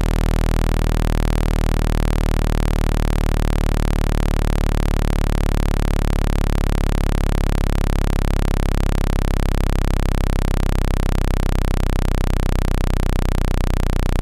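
Steady electronic low tone with many overtones above it, pulsing rapidly in loudness without a break: a speaker-cleaning tone played to vibrate water out of a phone speaker.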